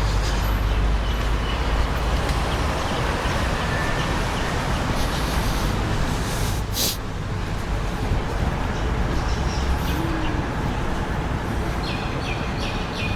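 Steady street traffic noise with a low rumble, and a few short bird calls faint above it.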